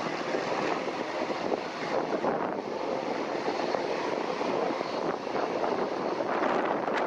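Airliner jet engines running in a steady roar, with a faint high whine about four to five seconds in, mixed with gusting wind on the microphone.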